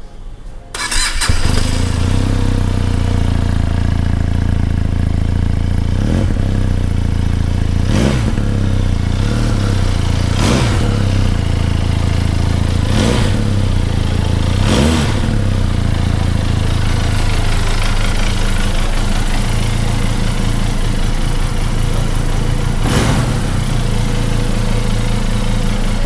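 Benelli 502C motorcycle's 500 cc parallel-twin engine starting under a second in, then idling loudly through its exhaust. It is revved about six times in quick blips, each rising and falling back to idle.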